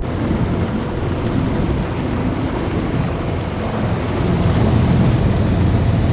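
A small boat out on the harbour with wind buffeting the microphone; a low rumble grows louder about four seconds in.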